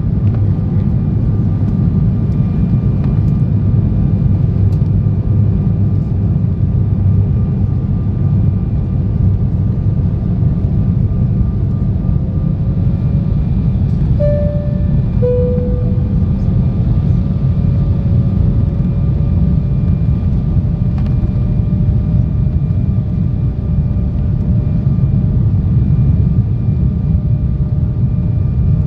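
Steady cabin rumble of airflow and turbofan engines inside an Embraer E170 airliner on its approach, with a faint constant whine above it. About halfway through, the engine tone shifts pitch, stepping up then down and gliding back up, as the thrust is adjusted.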